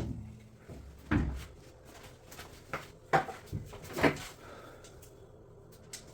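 Several separate knocks and clunks of drum washing machine parts and panels being handled, about a second apart, with the loudest a little over a second in and another near four seconds.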